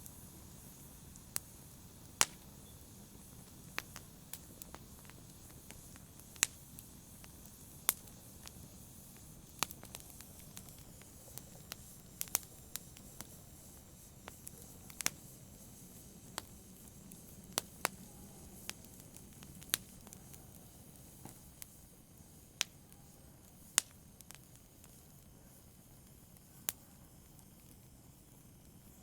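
Campfire burning: wood crackling with sharp, irregular pops every second or so over a low steady rumble of the flames, the pops thinning out near the end.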